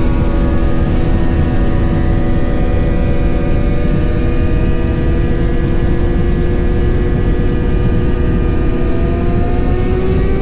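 Motorcycle engine running steadily at cruising speed over a heavy low rumble, its pitch rising slightly near the end.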